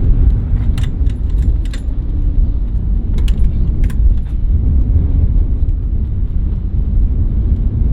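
Car interior: a steady low rumble from the car, with a few sharp clicks and jingles like keys or a seatbelt buckle in the first half.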